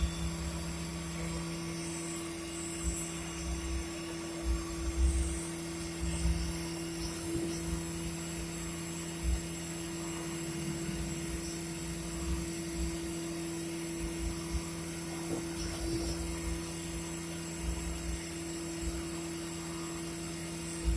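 Mori Seiki CNC machining centre running with a steady hum and a faint high whine, with irregular low bumps through it.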